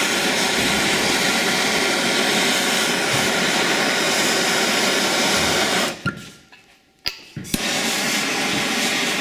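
A grinder grinding steadily into a seized dirt bike wheel bearing on its axle: a loud, even grinding rush with a steady motor whine. It stops for about a second some six seconds in, with a couple of clicks, then starts again.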